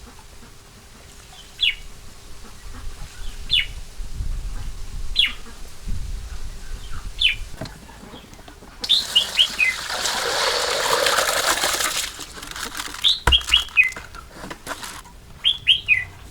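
Small birds chirping: short, sharply falling calls every second or two, sometimes in quick runs of three or four. A rush of noise lasting about three seconds comes midway, like splashing or wing flapping.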